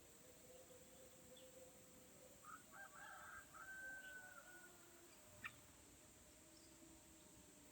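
Faint bird calls: a few short notes, then one long drawn-out call falling slightly in pitch about three seconds in, and a single sharp click near the end.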